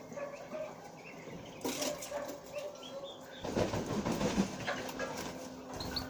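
Small aviary birds chirping faintly off and on. A louder, rough sound lasting about a second comes roughly three and a half seconds in.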